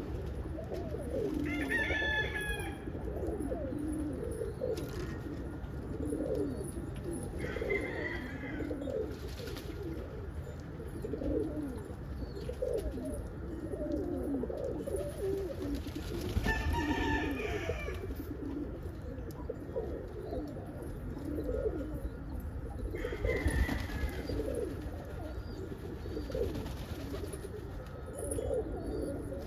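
Pigeons cooing continuously, with a rooster crowing four times over it.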